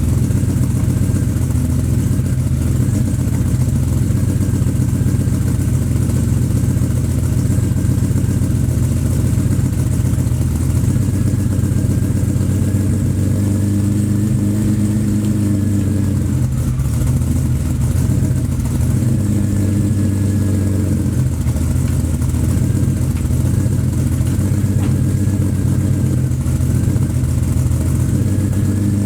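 BMW 850 (E31) V12 engine idling steadily while warming up after a cold start.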